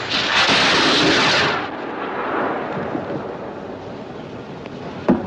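Distress rocket fired from a ship: a loud rushing hiss for about a second and a half, then a single sharp bang near the end.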